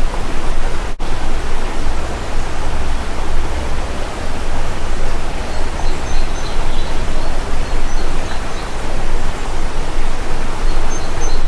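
Steady, loud rushing noise, with a few faint, short, high bird chirps now and then. The sound drops out for an instant about a second in.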